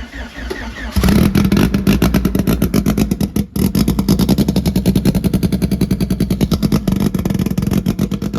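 Car engine on a possibly weak, uncharged battery, cranking, then catching about a second in and running at a loud, fast-pulsing idle, with a brief dip a little past three seconds.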